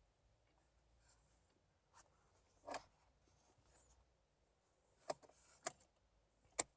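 Near silence broken by a faint click, a short rustle about three seconds in, then three sharp clicks in the second half, the last the loudest: small handling noises.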